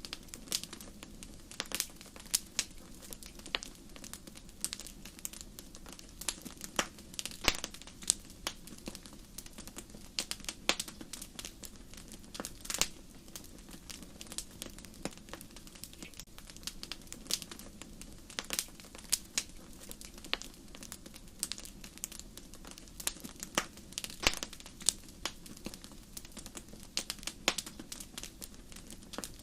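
Wood fire in a fireplace crackling: irregular sharp pops and snaps scattered over a steady soft hiss of the flames.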